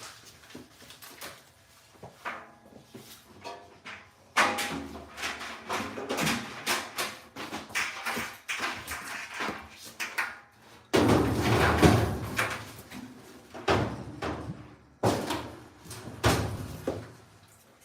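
Irregular clicks, knocks and clatter of tools and metal parts being handled during a dryer repair, busiest and loudest about two-thirds of the way in.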